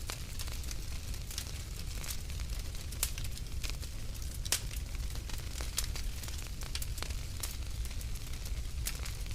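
Wood fire crackling in a fireplace: irregular sharp pops and snaps over a steady low rumble, with one louder pop about halfway through.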